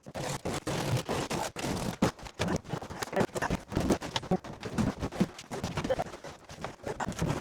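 Irregular knocks, clicks and scraping of demolition work, building debris being handled and moved.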